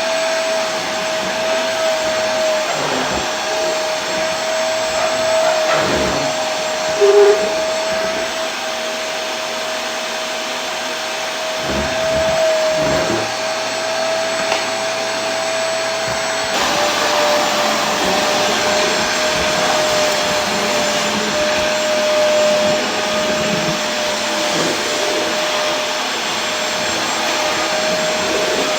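Vacuum cleaner running steadily: an even rush of air with a constant motor whine on top. About two-thirds of the way through the sound shifts slightly and the whine drops a little in pitch, and there is one brief louder blip about seven seconds in.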